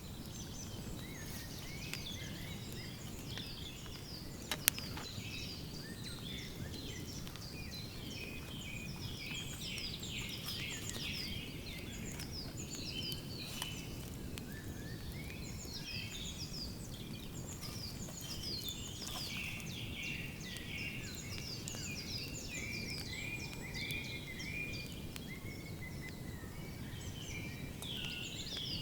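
Woodland birds singing, many short chirping calls overlapping throughout, over a low steady rumble. A single sharp crack comes about five seconds in.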